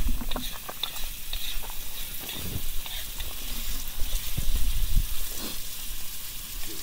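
Food sizzling in a wok on a portable gas stove, with a metal spoon clicking and scraping against the pan as it is stirred.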